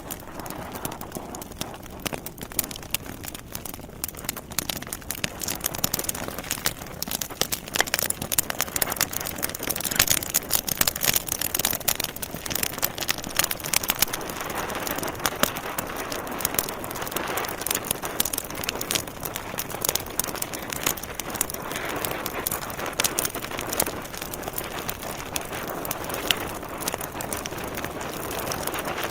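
Logs burning in a fireplace, crackling with many small irregular pops over the steady hiss of the flames. The pops are thickest about a third of the way in.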